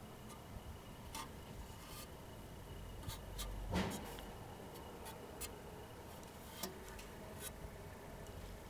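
Hands working on the fan and fan guard of a Daikin air-conditioner outdoor unit: scattered light clicks and rubbing, with one louder knock about four seconds in.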